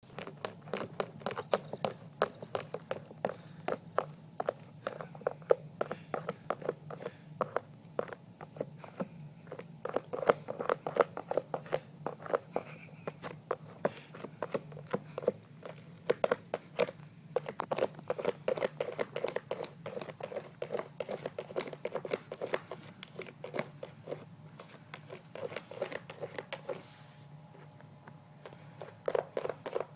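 Rapid irregular scratching and tapping, with short high bird chirps breaking in several times.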